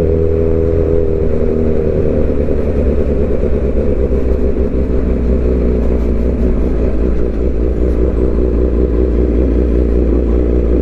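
Suzuki GSX-R750's inline-four engine running steadily at cruise through its aftermarket M4 slip-on exhaust. The pitch eases down slightly over the first couple of seconds, then holds steady.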